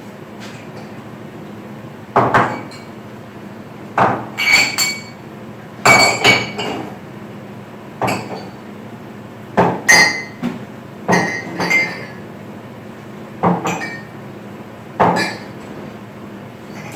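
Kitchenware clinking and knocking: about fifteen separate sharp clinks, some ringing briefly like glass or china, as dishes and utensils are handled.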